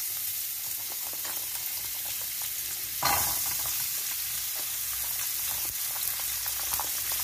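Hot oil sizzling in a frying pan as handfuls of diced mixed vegetables are dropped in. The sizzle surges about three seconds in as another handful lands, then settles back to a steady hiss.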